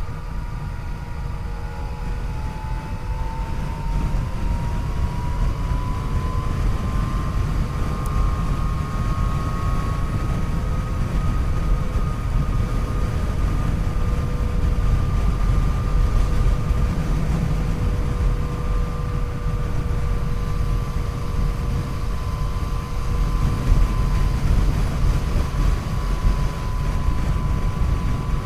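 Yamaha FJ-09's 847 cc inline three-cylinder engine running at a steady cruise, its pitch rising a little over the first several seconds and then holding, over a steady low rumble.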